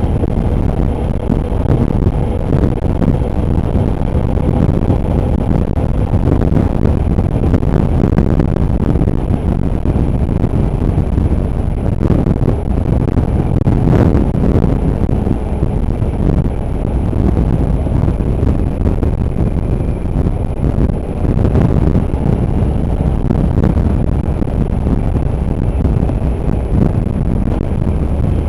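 Motorcycle under way at road speed: engine running beneath a steady, loud rush of wind on the microphone.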